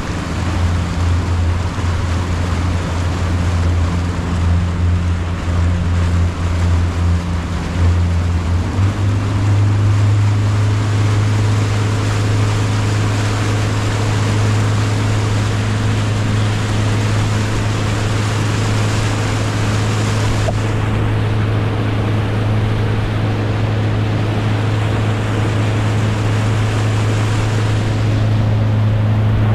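Motorboat engine running steadily under way, its low drone stepping up in pitch about nine seconds in as the throttle is opened, over a constant rush of water and wind.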